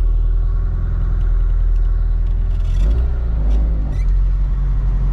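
Nissan SR20DET turbocharged four-cylinder in a BMW E30, running at low speed under way, heard from inside the cabin: a steady low rumble whose note shifts about three seconds in.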